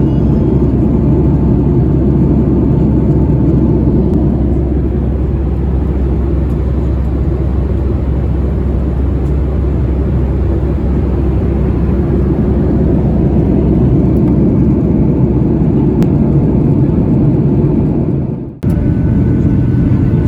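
Steady cabin drone of a Boeing 737-800 in cruise: engine and airflow noise, low and even. It drops out briefly near the end and comes back at the same level, with a faint thin whine added.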